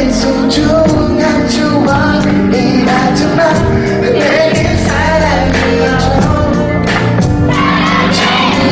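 A Korean pop song with sung vocals over sustained backing and a steady drum beat.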